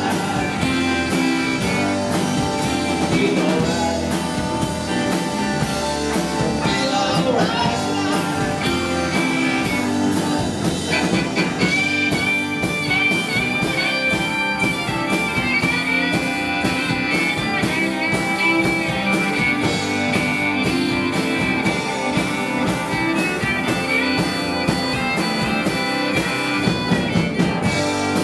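Live blues-rock band playing, with electric guitar, bass and drums and steady cymbal strokes. About twelve seconds in, a long wavering high note is held above the band.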